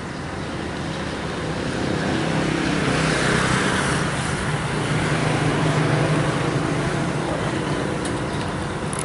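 Road vehicle noise: a steady rushing with a faint low engine hum, growing louder over the first few seconds.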